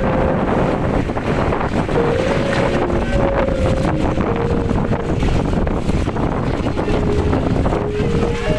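Storm wind buffeting the microphone in a loud, steady rush, with a faint melody of background music running over it.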